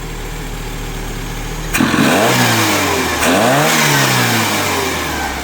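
Carburetted VW Golf GTI four-cylinder engine idling, then revved twice from about two seconds in, the revs rising and falling each time before settling back to idle. It runs smoothly with its ignition timing just set to 6 degrees advanced.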